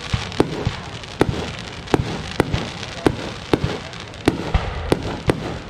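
Fireworks display: shells launching and bursting in quick succession, about two sharp bangs a second over a continuous hiss.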